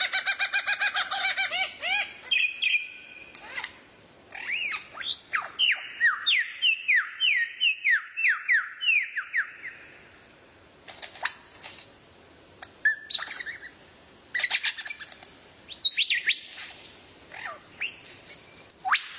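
Songbird singing: a fast trilled run of chirps, then a string of quick downward-sweeping whistled notes, about three a second, followed by scattered sharp calls and a long high whistle near the end.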